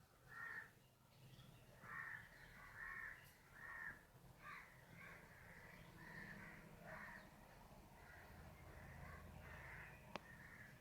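Faint, repeated cawing of crows, short calls coming in irregular succession over a low background hum, with one sharp click near the end.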